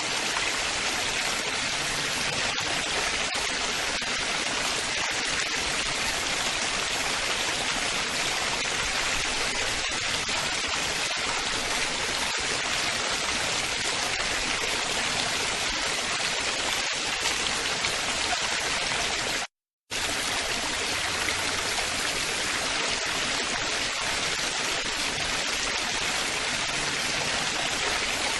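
Steady splashing, babbling running water of a stream, strongest in the hiss. About two-thirds of the way through, the sound cuts out completely for under half a second, then carries on unchanged.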